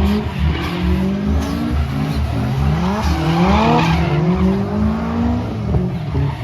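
Drift cars running hard, engines revving up and down with tyres squealing and skidding, loudest about halfway through.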